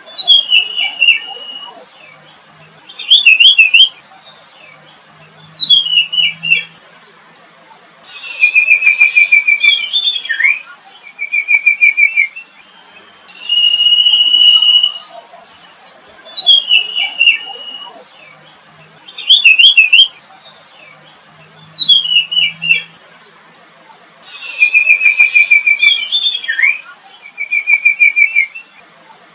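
Songbird singing in clear whistled phrases of one to two seconds with short pauses between. Some phrases are a held high note and others are quick repeated notes or falling slurs. The same run of phrases comes round again about every 14 seconds.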